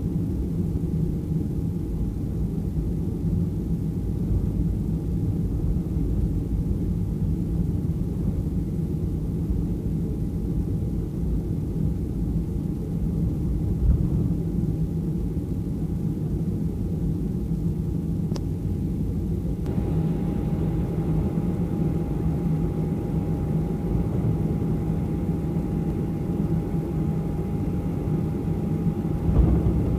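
Cabin noise inside a Boeing 737 taxiing on the ground: a steady low rumble with a faint steady whine from the engines and air system. It turns a little brighter and louder about two-thirds of the way in, with a couple of brief bumps as the jet rolls.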